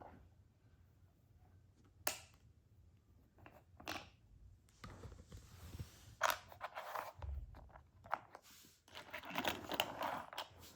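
Plastic toy parts being handled: a sharp click about two seconds in and another about four seconds in, then stretches of rustling and clattering.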